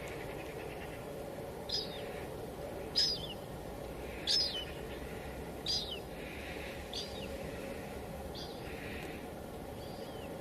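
Steady hiss of light rain (drizzle), with a bird calling over it six times, short high calls that sweep downward, about every second and a half.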